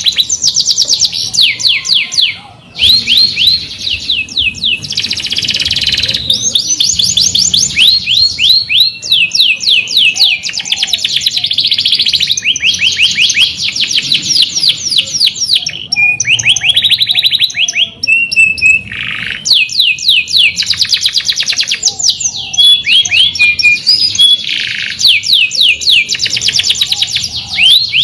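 Domestic canary singing a long, loud song of fast rolling trills, each trill a rapid run of quick falling notes, with only brief pauses.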